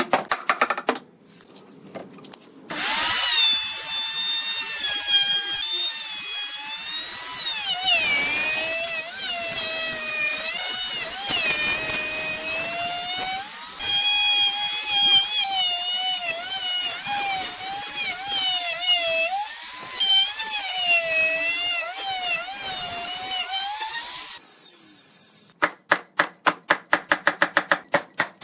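Handheld electric power tool, drill-like, whining for about twenty seconds, its pitch dipping and recovering as it bites into wood. Near the end it stops and a fast run of sharp taps follows.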